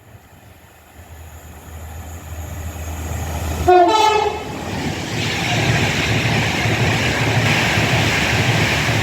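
Class 66 diesel freight locomotive approaching and passing: its engine hum grows louder, it gives a short horn blast about four seconds in, then the wagons go by with a steady loud rumble and rush.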